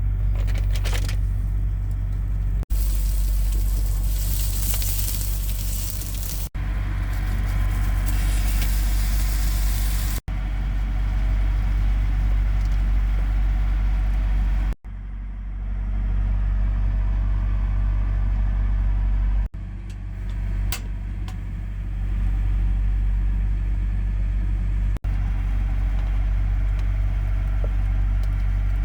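A semi truck's engine idling with a steady low drone, briefly cut off at several edits. A loud hiss rides over it from about three to ten seconds in.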